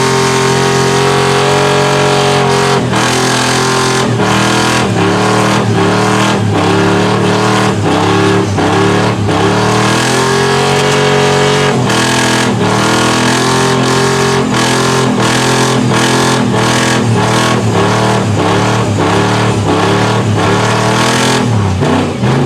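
Mud truck engine revving hard at high rpm, its pitch surging up and dropping back in quick, repeated jumps, cutting off near the end.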